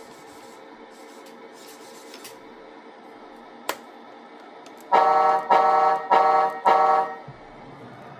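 Four short blasts of a truck air horn, played through the small speaker of a Tamiya MFC-03 sound unit in an RC truck. They come over a faint steady hum, with a single click just before the middle.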